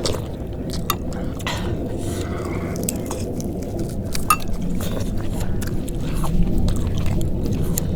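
Chewing and mouth sounds of someone eating close to the microphone, with scattered short clicks over a steady low rumble.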